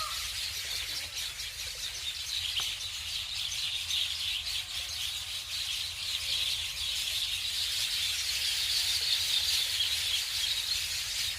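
Many small birds chirping together in a continuous, dense chorus of high-pitched twitters.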